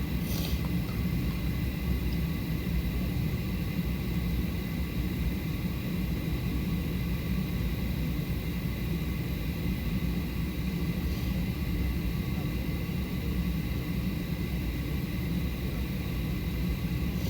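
Boeing 737-800 cabin sound on the ground: the CFM56 jet engines running steadily at idle, a low rumble with a faint high whine over it.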